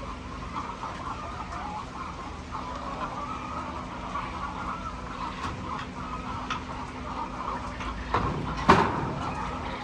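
A flock of laying hens clucking and chattering over a steady low hum, with one loud knock or clatter near the end.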